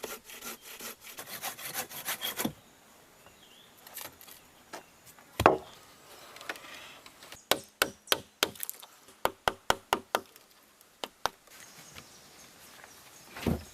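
Hand tools working a raw wooden log: quick rasping, sawing strokes for the first two and a half seconds, then sharp knocks of tool on wood. One heavy knock comes about five seconds in, a quick run of about a dozen follows between seven and ten seconds in, and another heavy knock comes near the end.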